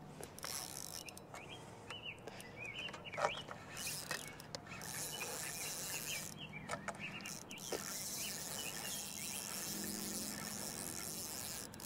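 Small birds chirping in short, scattered calls over a steady outdoor hiss that grows louder about halfway through.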